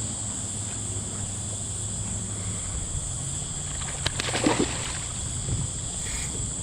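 Water sloshing against a kayak hull, with a short louder knock or splash about four seconds in.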